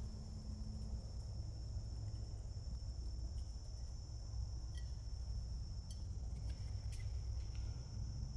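Insects trilling as one continuous high-pitched tone, over a low outdoor rumble, with a few faint short ticks in the middle.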